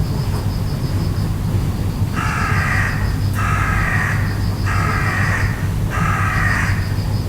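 A bird calls four times in the second half, each harsh call lasting under a second, over a steady low hum.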